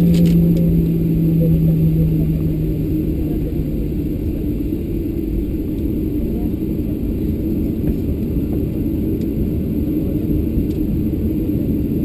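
Cabin noise of a Boeing 737-700 taxiing after landing: a steady low rumble from its CFM56-7B engines, with a low hum that fades away in the first few seconds.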